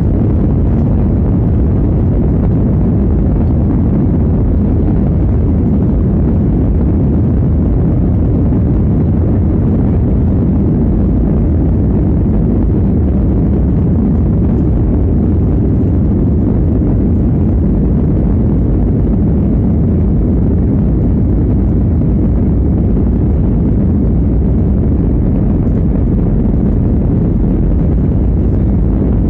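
Airliner cabin noise during takeoff or climb: a loud, steady low roar of jet engines and airflow, heard from inside the passenger cabin, with no change in level or pitch.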